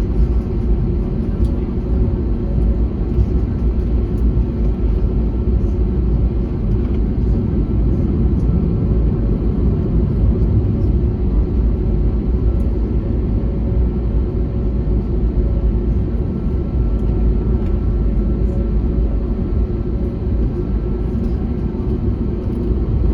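Airbus A321neo's Pratt & Whitney geared turbofan engines running, a steady low rumble with faint steady tones above it.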